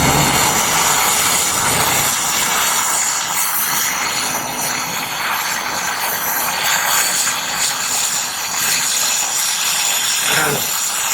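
Gas brazing torch flame hissing steadily while a copper pipe joint on the air conditioner's refrigerant line is heated.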